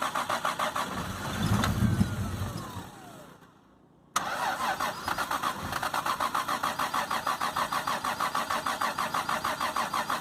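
Toyota Supra's single-turbo engine cranking on its starter after sitting almost ten years, an even chugging of about five pulses a second. About a second in it fires briefly, then winds down and dies. After about a second of quiet the starter cranks it again.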